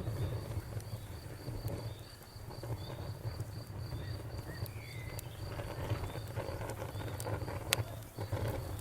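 Crickets chirping in an even, rapid rhythm over the low rumble of a burning bonfire, with scattered crackles and one sharp pop near the end.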